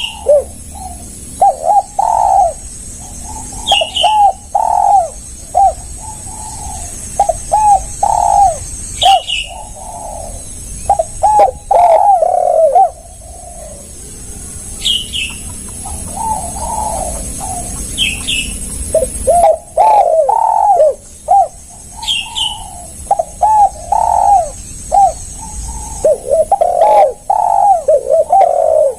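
Spotted doves cooing, phrase after phrase, with short gaps between the phrases. Short high chirps from another bird come through every few seconds over a steady high whine.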